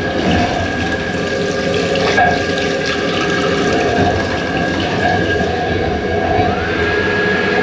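Water running from a tap into a small washbasin on a moving train, over the train's steady running noise with a high, constant whine.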